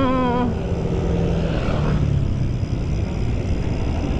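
Steady low rumble of a motor vehicle engine running on the road, with a low engine tone audible early on that fades by about two seconds in.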